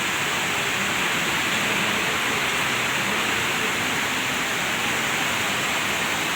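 Steady rush of fast-flowing water at the source of a waterfall, an even, unbroken roar of white water.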